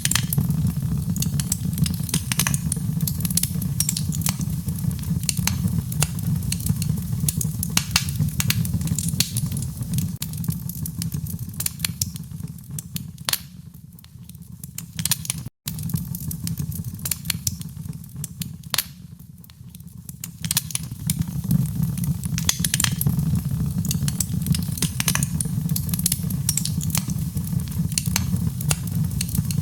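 Wood fire in a fireplace burning with a steady low rumble and frequent sharp crackles and pops. About halfway through the sound fades down, cuts out for an instant, then builds back up.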